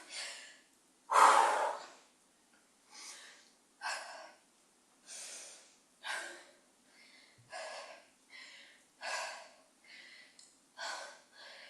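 A woman breathing hard through a set of pulsing squats, with short sharp breaths about once a second. One breath about a second in is louder than the rest.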